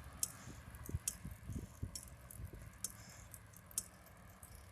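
Light rattling and clicking from a bicycle being ridden, with sharp clicks about once a second over a steady low rumble.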